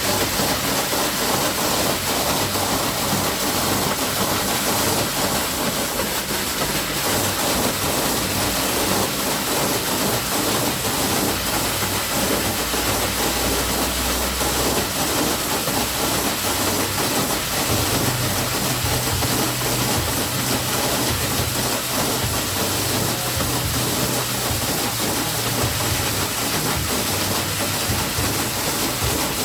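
Water gushing from an open fire hydrant, a steady loud rushing hiss.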